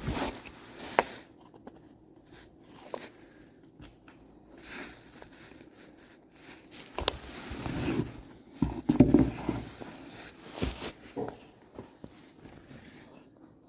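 Wooden feeder parts and screws being handled and fitted together: scattered clicks, knocks and scrapes, busiest in the second half.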